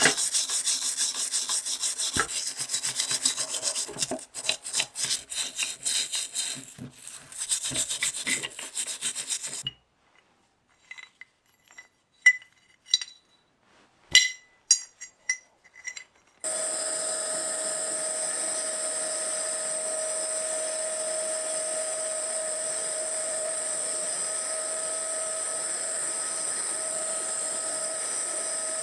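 Fast, regular rubbing or filing strokes on a workpiece, stopping abruptly about ten seconds in. A few light clicks and clinks of tools or small parts follow. From about halfway, a steady hiss of escaping air carries a steady whistling tone.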